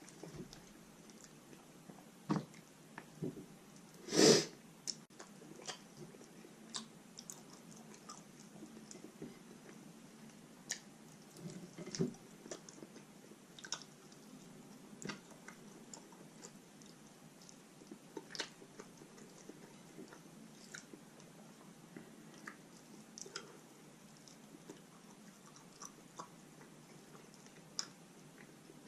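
Close-miked chewing and biting of roast chicken meat, with scattered wet smacks and clicks at an unhurried pace. One louder sound about four seconds in.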